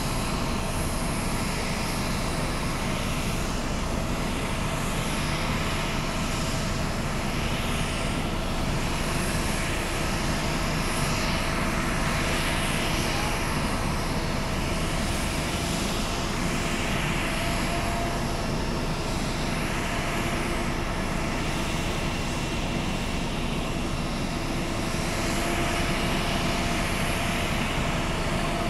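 Jet airliner engines running steadily at low power, a constant rush with a few steady tones over it that swells slightly every couple of seconds.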